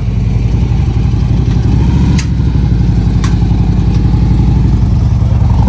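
Harley-Davidson V-twin motorcycle engine running steadily at low speed, with two sharp clicks about two and three seconds in.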